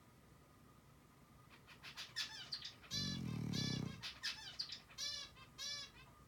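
A bird chirping: a run of short, repeated chirps lasting about four seconds. About three seconds in, a louder low rumble lasts about a second.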